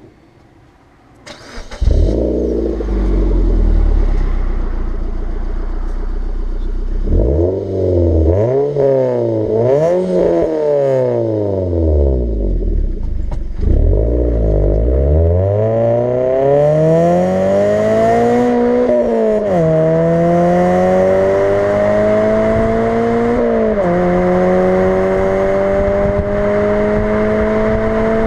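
Suzuki Swift Sport engine through a non-resonated sports exhaust: it starts about a second and a half in and idles, is revved up and down several times, then climbs steadily in pitch with two sudden drops, like upshifts under acceleration.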